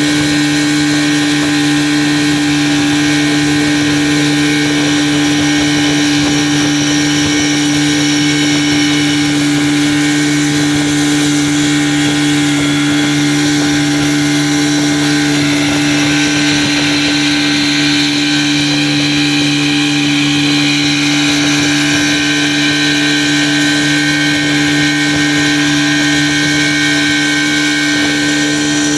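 Motorboat's outboard engine running at a steady speed, one unchanging engine note with no change in pitch.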